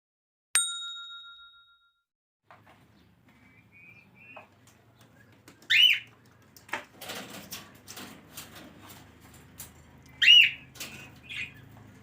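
A single bell-like ding rings out near the start, then caged cockatiels and lovebirds chirp and call, with two loud whistled calls about six and ten seconds in, among small clicks and rustles.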